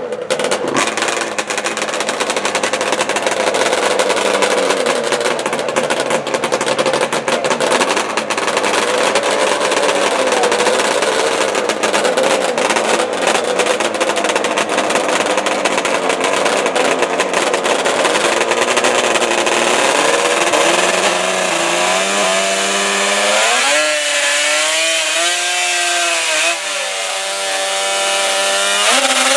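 Racing ATV engines running loud and hard, with a dense crackle through the first two-thirds. In the last third the engine pitch rises and falls in waves as they rev.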